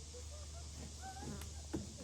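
Birds calling in short, wavering chirps over a steady low hum, with two sharp knocks near the end.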